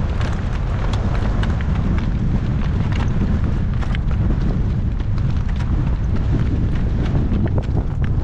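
Strong wind buffeting the microphone in a steady low rumble, the loudest sound, with a horse's hoofbeats as short, irregular clicks over it.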